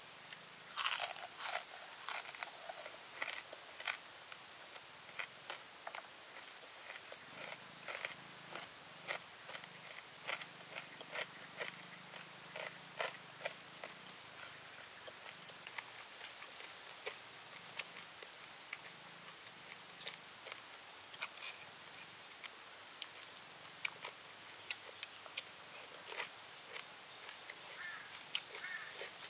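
Close-up crunching and chewing of crispy deep-fried snake, a mouth biting through the brittle fried rings. A loud cluster of crunches comes about a second in, followed by repeated smaller crunches as the chewing goes on.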